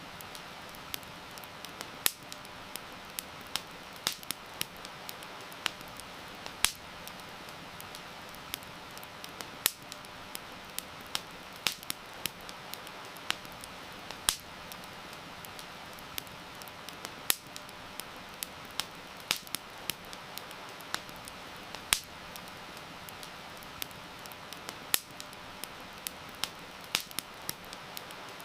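Campfire crackling, with sharp irregular pops of varying loudness, over a steady hiss of heavy rain.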